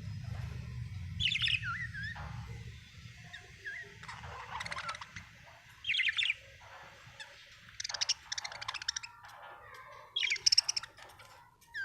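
Budgerigars chirping and squawking in short, high bursts every couple of seconds, with a low rumble underneath during the first few seconds.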